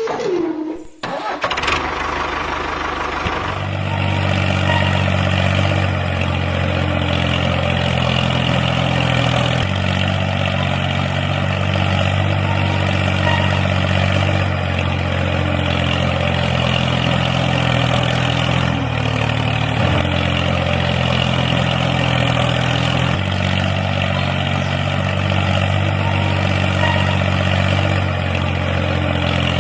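An engine running steadily, coming in about two seconds in and growing louder a couple of seconds later.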